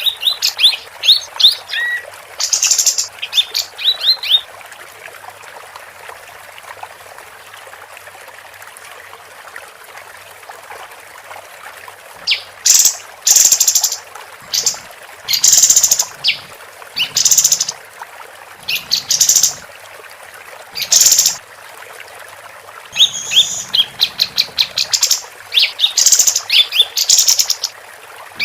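Female kapas tembak (a songbird kept for singing contests) singing in bursts of rapid, sharp high-pitched chirps and trills, with a pause of several seconds after the opening phrases before the song picks up again and repeats to the end.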